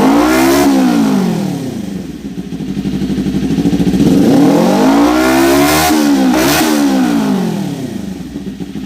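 Kawasaki Ninja 250 parallel-twin revving through a Nine Exhaust GP1 short slip-on muffler: a quick blip right at the start, then a slower climb to a high peak about six seconds in with a second short blip, falling back toward idle near the end.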